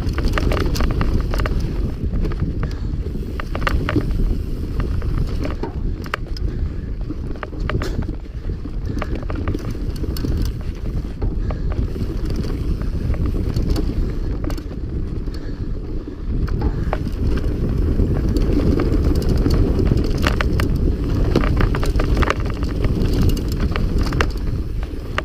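Mountain bike ridden fast over rough dirt and stones: a steady low rumble with frequent sharp rattles and clicks from the bike.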